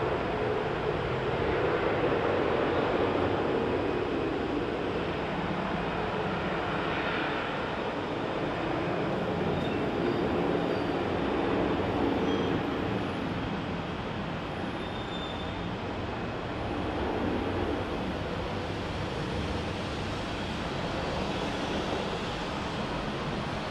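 Jet airliner engines giving a steady, loud rumbling roar that eases slowly.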